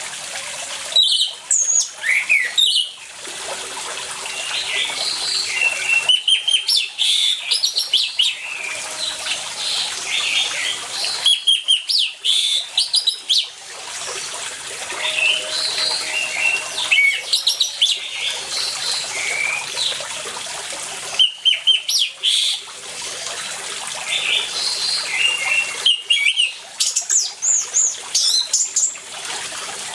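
Orange-headed thrush singing loud bursts of quick, varied phrases every few seconds, over the steady rush of running water.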